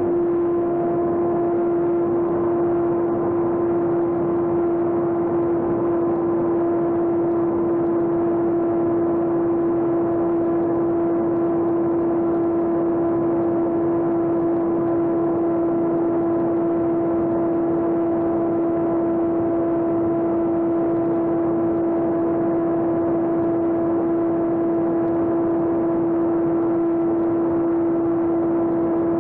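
Electric RC airplane's motor and propeller whining at a steady, unchanging pitch, as if held at constant throttle in flight.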